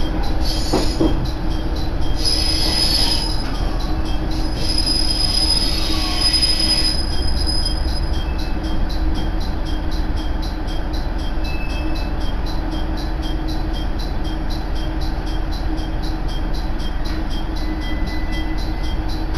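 Railcar heard from inside while running, a steady rumble and hum. High-pitched wheel squeal comes in about two seconds in and lasts several seconds, with a few brief fainter squeals later.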